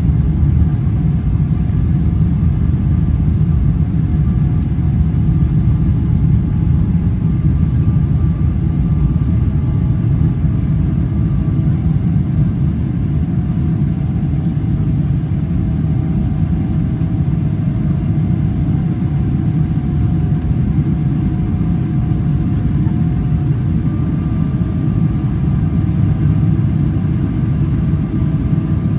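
GE90-115B engines of a Boeing 777-300ER heard from inside the cabin at climb thrust after takeoff: a steady, loud low rumble with faint humming tones above it.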